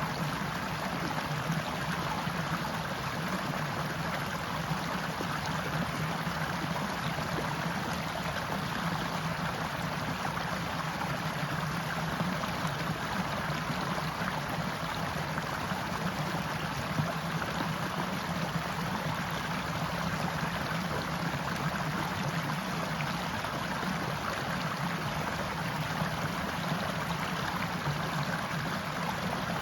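Forest stream running steadily, an even rush of flowing water with no breaks.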